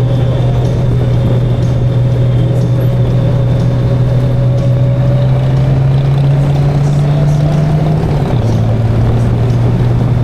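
Motorcycle engine running under way at a steady pitch that creeps up slowly, then drops suddenly about eight seconds in, as at a gear change.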